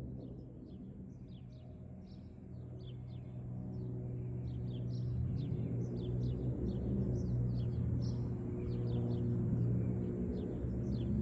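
Birds chirping over and over, short quick calls, above a low steady drone that grows louder through the second half.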